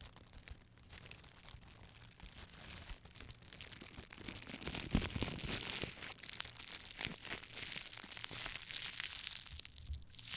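Dense, irregular crackling: many small snaps and crinkles close together, growing louder about four seconds in and staying busy to the end.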